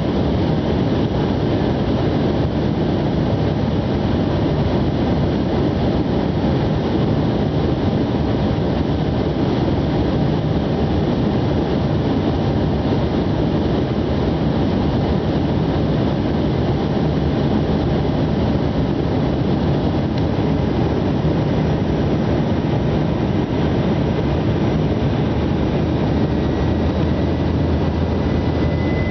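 Steady, loud drone of an aircraft's engines, an even rushing noise with a faint low hum that does not change.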